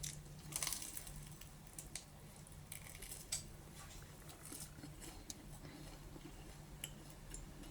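Faint eating sounds: a few short crisp crunches and small mouth and chewing noises at irregular moments, strongest about half a second in and again around three seconds.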